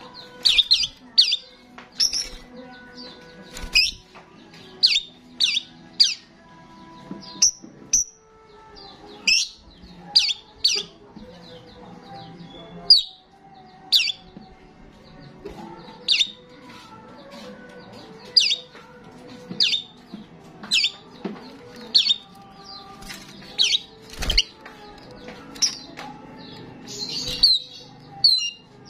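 Starling calling repeatedly: loud, short, sharp chirps, one or two a second, with irregular pauses.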